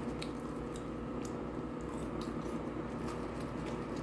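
Close-miked chewing of McDonald's French fries: soft, wet mouth sounds with scattered small clicks and smacks, over a steady low hum.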